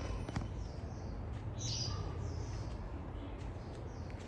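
A small bird giving short, high chirps that fall in pitch, repeated about once a second, over a faint low rumble.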